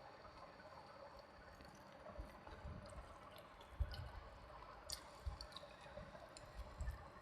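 Faint wet eating sounds: soft squishes and smacks of a saucy meal being chewed, with scattered small clicks and a few soft low thumps.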